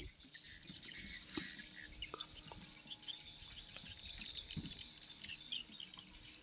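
Birds chirping, many short high chirps in quick succession, with a few faint clicks.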